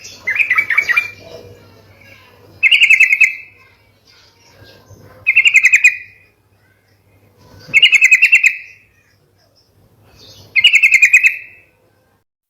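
Yellow-vented bulbul (trucukan) singing in rapid 'ropel' style: a fast chattering phrase of quick repeated notes, given five times about every two and a half seconds.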